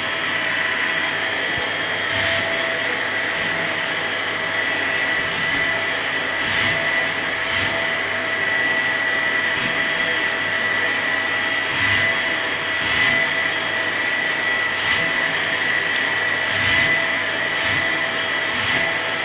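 Vacuum cleaner running steadily with a constant motor whine, its airflow briefly surging louder about ten times at irregular intervals.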